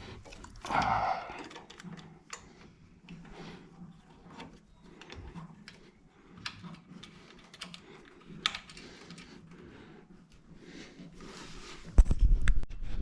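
Scattered light clicks and taps of hand tools and fasteners being handled while a fuel pump bracket is bolted on, with a short scraping rush about a second in and a heavy low thump near the end.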